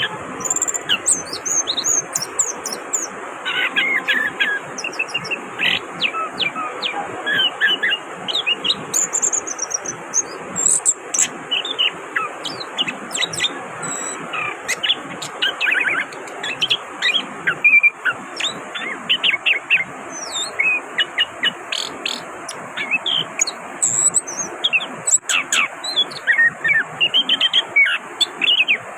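Chestnut-capped thrush (anis kembang) singing continuously: a fast, varied run of high whistles and chirps, over a steady hiss.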